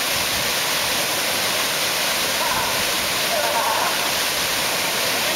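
Waterfall rushing with a steady, even roar, with faint distant voices about halfway through.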